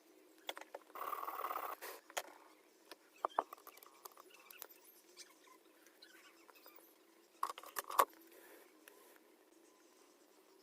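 Scattered light clicks and taps, with a short scraping rustle about a second in and two sharper clicks near the end, over a faint steady hum.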